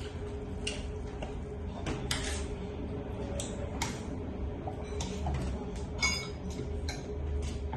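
Cutlery clinking against bowls and dishes in short, irregular clicks over a steady low hum, as instant noodles are eaten.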